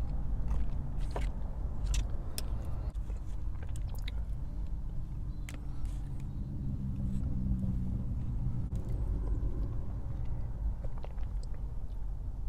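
Chewing and biting into a gas-station burrito: soft wet crunches and crisp mouth clicks, most of them in the first half, over a steady low rumble.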